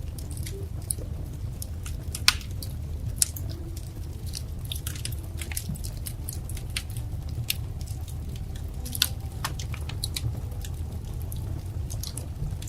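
Wood fire crackling: irregular small snaps and pops over a steady low rumble of burning, with a few louder pops about two, three and nine seconds in.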